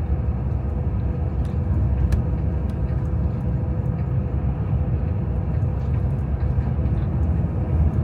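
Steady road and engine rumble heard inside a moving vehicle's cabin, with a faint steady hum above it.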